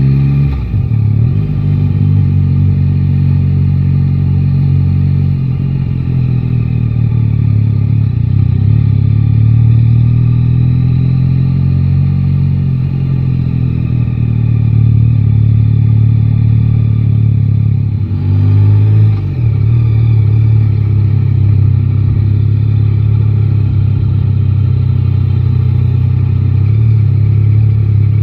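Yamaha Tracer 9 GT's 890 cc inline three-cylinder engine running under way: the note rises and drops back about half a second in and again about nineteen seconds in, as with gear changes, and swells and eases gently in between.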